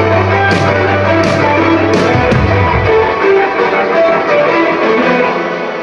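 Live band music led by guitar, loud, with bass and low end for the first couple of seconds. Then the low end drops out and guitar notes ring on, fading toward the end as the song closes.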